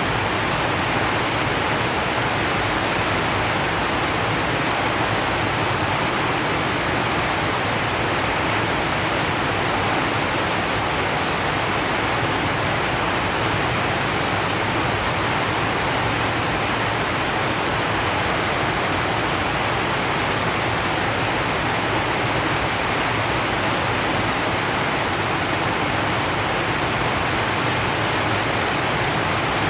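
Heavy rain falling steadily on a zinc sheet roof, an even hiss with no single drops standing out.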